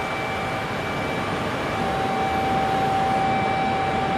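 E5 and E6 series Shinkansen train set at the platform: a steady rushing noise, with a steady high-pitched tone that breaks off about half a second in and returns a second later.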